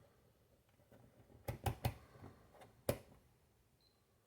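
A few light clicks and taps from small parts being handled: a quick cluster of three, then one more about a second later.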